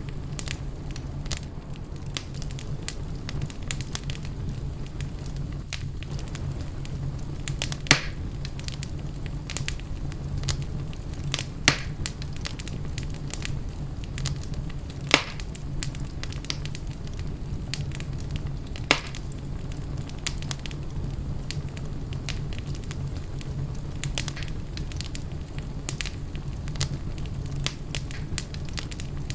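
Fireplace fire crackling: a steady low sound of the flames under constant small crackles, with four louder sharp pops a few seconds apart in the first two-thirds.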